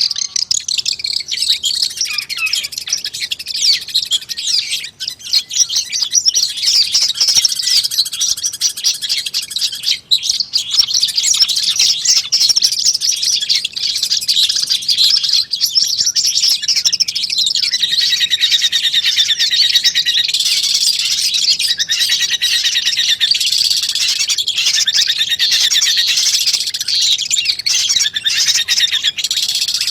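Long-tailed shrike song: a rapid, unbroken run of varied chirps and trills, growing denser and fuller about two-thirds of the way through.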